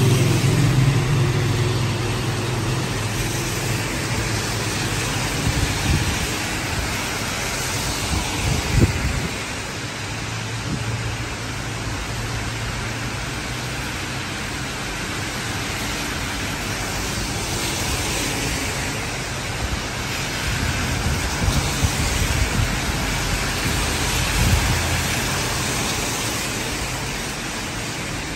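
Heavy rain falling on a wet city street, with cars passing on the wet road in swells every few seconds; a low engine rumble at the start.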